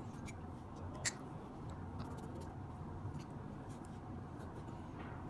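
Faint small clicks and light scraping from hands working on a lighter's parts, with one sharper click about a second in.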